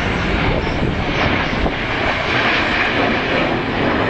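Jet noise from the Red Arrows' BAE Hawk jets flying past in formation, a steady rushing sound that swells a little in the middle.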